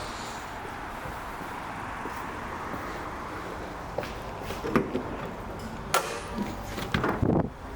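Steady background noise, then a run of sharp knocks and clicks over the last few seconds, the loudest near the end.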